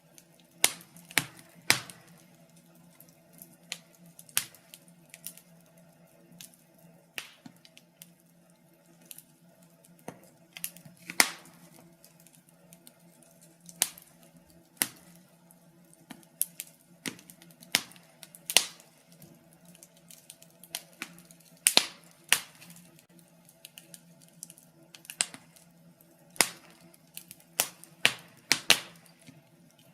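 Wood fire crackling in a fireplace: irregular sharp pops and snaps, sometimes several in quick succession and sometimes a second or two apart, over a faint steady low hum.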